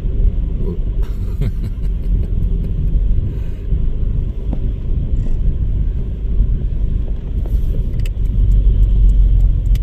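Steady low rumble of a car on the move, road and engine noise, a little louder near the end.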